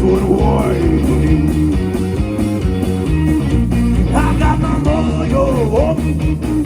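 Live blues-rock band playing loudly, with guitar in front over bass and drums; the guitar line has bent, gliding notes.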